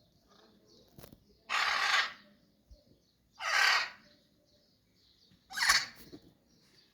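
A bird gives three loud, harsh, crow-like caws about two seconds apart, with faint high chirping from small birds in between.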